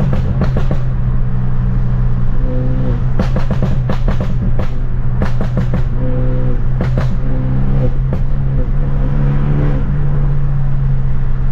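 Straight-piped BMW F30 328i's turbocharged four-cylinder droning steadily from inside the cabin while driving. Clusters of sharp exhaust pops and crackles come through, mostly in the middle.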